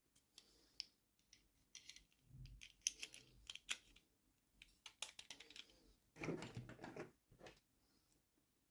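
Faint, irregular clicks and taps of small plastic toy pieces and packaging being handled, with a short rustle of packaging about six seconds in.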